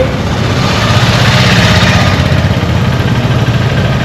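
Indian street traffic heard from a vehicle on the move: engines running steadily with a low rumble, and a swell of passing road noise about a second or two in.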